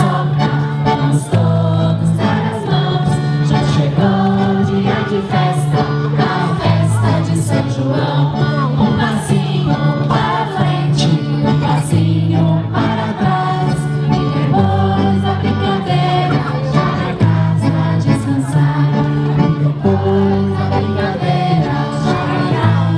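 Group singing a festa junina folk song, with instrumental accompaniment and a bass line changing notes every second or so.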